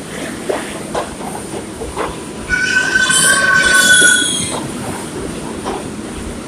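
Kawasaki R142A subway train running over the rails: a steady rumble with clicks from the wheels passing rail joints. About two and a half seconds in, a high metallic wheel squeal rises over it for about two seconds and is the loudest sound.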